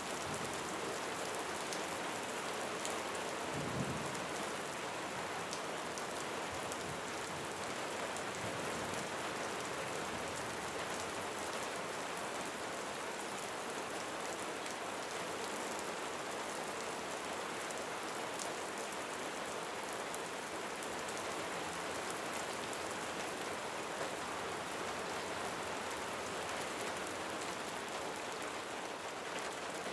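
Steady rain falling on a roof, a dense even patter of drops. A brief low thump comes a little under four seconds in.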